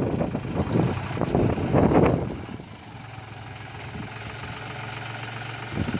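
Tractor engine running loud and rough for the first two seconds or so, then dropping to a steady idle.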